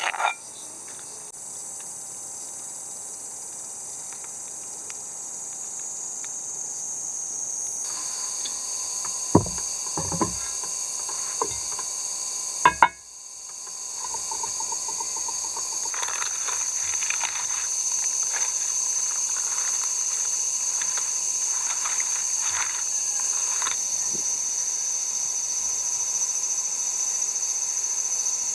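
Chorus of summer insects: a steady high-pitched buzz that gets louder after about 8 seconds, with a few short knocks between about 9 and 13 seconds.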